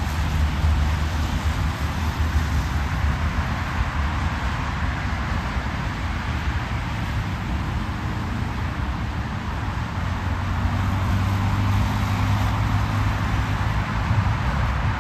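Steady road and engine noise of a car driving at highway speed. A low hum underneath rises a little in pitch about ten seconds in.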